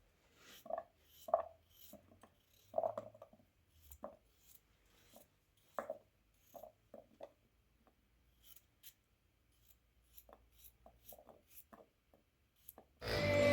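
Scattered short scrapes and soft knocks of food being prepared by hand with utensils, with a few louder clusters. Music comes in suddenly near the end.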